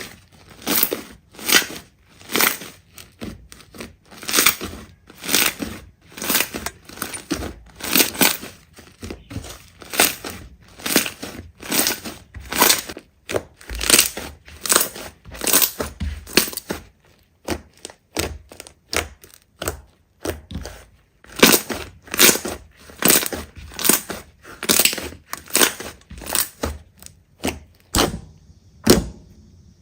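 Slime being squeezed and pressed, a steady run of short crackly squishes about two a second.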